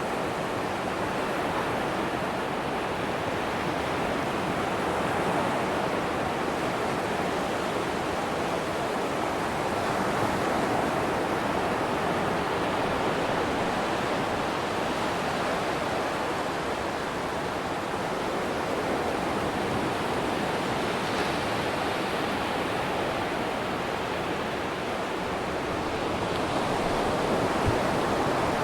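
Atlantic surf washing onto a sandy beach: a steady rush of breaking waves that swells and eases every few seconds.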